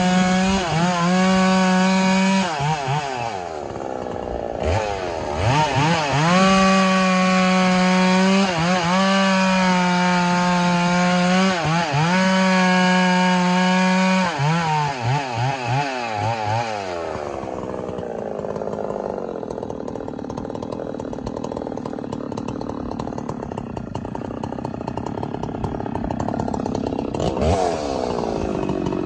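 Two-stroke chainsaw running at full throttle through long cuts in firewood, its pitch holding steady and high, dipping briefly about three seconds in. After about fourteen seconds it drops off and runs lower and rougher, with a short rev near the end.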